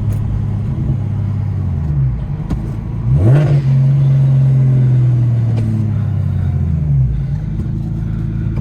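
BMW N54 inline-six with a DocRace single-turbo kit, heard from inside the cabin while driving: the engine note dips, then rises quickly about three seconds in and holds a strong, steady drone before easing off around seven seconds.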